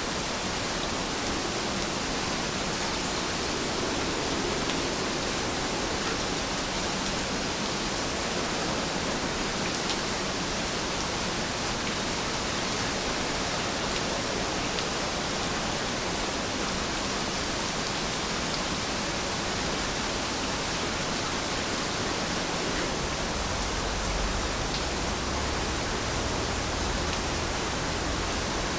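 Steady, even rain with faint scattered drop ticks, and a slight low rumble near the end.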